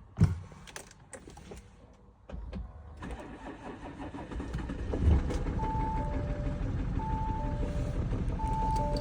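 Audi Q7 3.0 TDI V6 diesel (CRTC) started: a loud clunk near the start, then the engine starts about three seconds in and settles into a steady idle. From about halfway, a two-note chime repeats, high then low, every second and a half or so.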